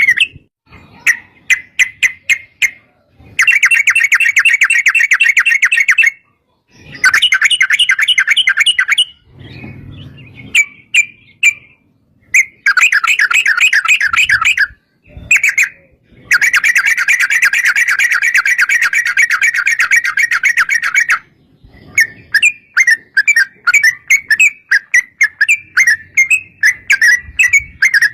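Yellow-vented bulbul (trucukan) calling: long, rapid chattering trills lasting several seconds each, broken by short pauses, then a run of separate short chirps in the last few seconds.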